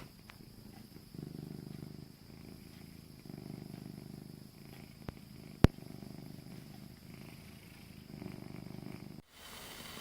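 Domestic cat purring close up, the rumble swelling and fading with each breath in and out. A sharp click sounds a little past halfway, and the purring cuts off abruptly about a second before the end.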